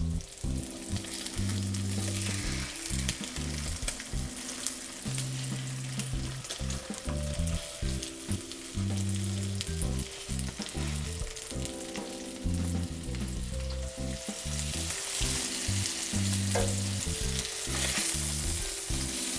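Chicken breasts frying in melted butter in a skillet, a steady sizzle that grows brighter over the last few seconds, with occasional light clicks of metal tongs as the pieces are turned.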